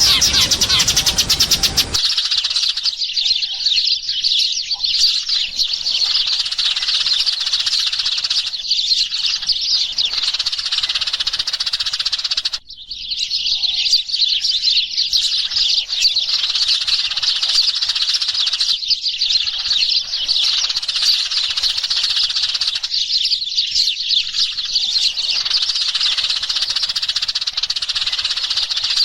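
A flock of Eurasian tree sparrows chirping continuously, many overlapping calls, with a brief break a little under halfway through. The first two seconds hold a harsher noise that cuts off abruptly before the chirping takes over.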